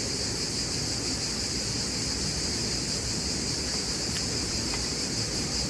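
Steady chorus of insects, a continuous high buzz without pause, over a low steady rumble.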